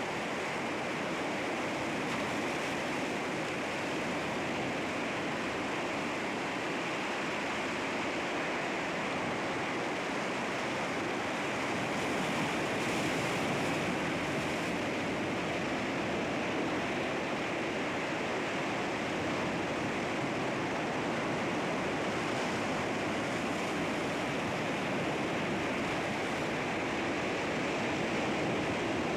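Sea waves washing against rocks, a steady continuous rush of surf with slight swells.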